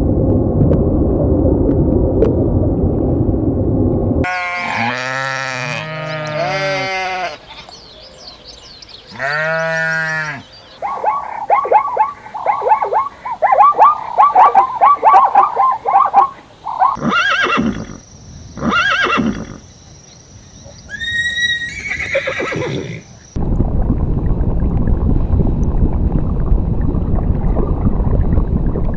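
A string of separate animal calls, one after another: pitched calls that rise and fall, then a run of quick high chirps, then a few sharper calls. A steady noise comes before them and returns near the end.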